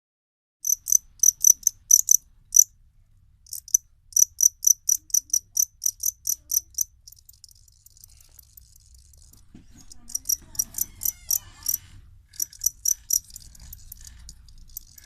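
Jangkrik kalung crickets (two-spotted field crickets, Gryllus bimaculatus) chirping: runs of sharp, high-pitched chirps at about four a second, broken by short pauses.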